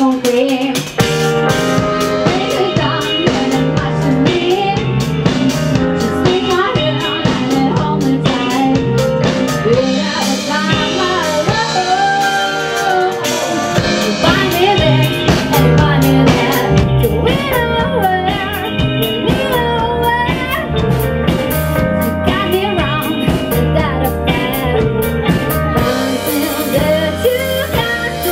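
Live rock band playing on stage: electric guitar, bass and drum kit, with a melodic line winding over them.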